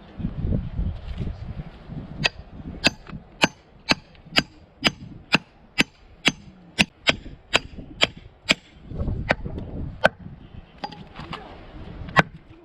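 Batoning firewood: a wooden baton strikes the spine of a blade driven into a log, a quick run of sharp wooden knocks about two to three a second, then a few slower blows near the end.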